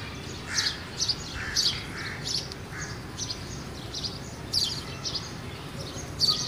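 Small birds chirping in short, irregular calls over a steady low background noise.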